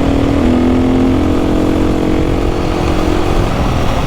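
Trail motorcycle engine running at a steady road speed, its pitch stepping up slightly about half a second in and then holding, over a low rumble.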